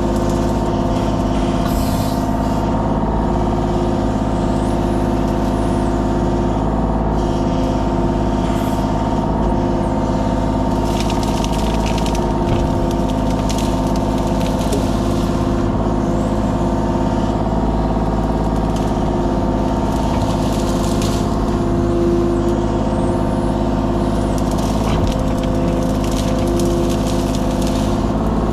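Kubota KX033 mini excavator's diesel engine running at a steady speed, with brief hissing noises now and then.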